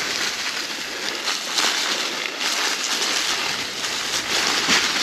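Mountain bike rolling down a rocky trail covered in dry fallen leaves: a steady rustling of tyres through the leaves, with many small rattles and crunches.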